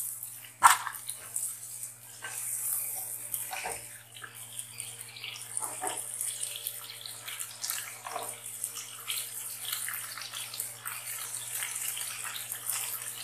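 Sliced potatoes, carrots, peas and tomato sizzling in hot oil in a wok as they fry, a steady crackling hiss. A sharp knock of the spatula against the pan comes about half a second in, with a few lighter knocks and scrapes from stirring.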